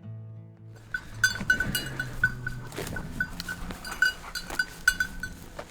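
Small bell on a bird dog's collar jingling in quick, uneven strokes as the dog moves, over faint background music.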